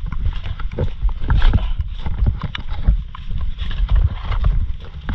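Irregular knocks and taps over a constant low rumble of wind buffeting the microphone, aboard a small boat in heavy rain.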